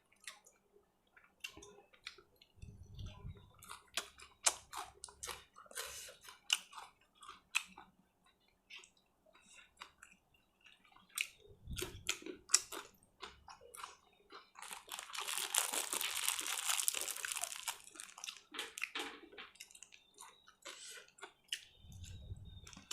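A person chewing and eating spicy grilled pork salad with sticky rice, with many short scattered mouth clicks and smacks. About fifteen seconds in comes a hissing rustle lasting about three seconds.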